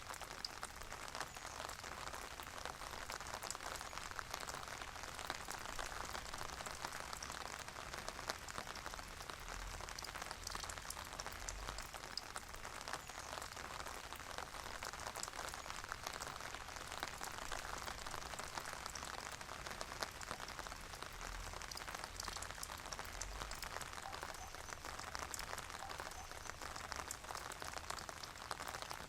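Calm, steady rain falling, with the fine ticking of individual drops.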